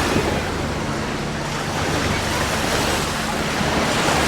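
Sea waves washing onto a sandy beach, with wind buffeting the microphone and a steady low hum underneath.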